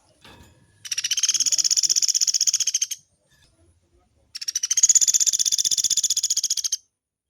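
Pelatuk beras songbird singing two long, rapid trills of high repeated notes, each lasting about two to two and a half seconds, separated by a short pause.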